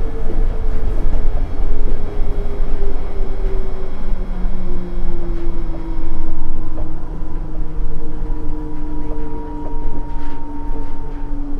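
Nippori-Toneri Liner 330-series rubber-tyred guideway car running, heard from inside the car: a steady low rumble with the drive's whine slowly falling in pitch.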